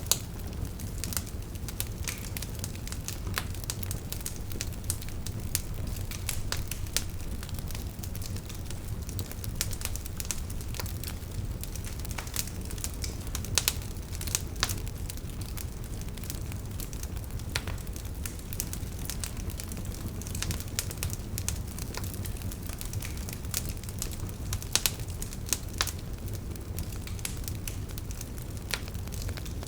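Wood fire burning with a steady low rumble and frequent irregular crackles from the burning logs, a few louder pops among them.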